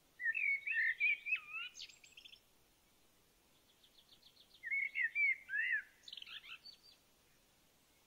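A songbird singing two warbled phrases of quick, sliding whistled notes, each about two seconds long, with a faint run of quick ticks between them.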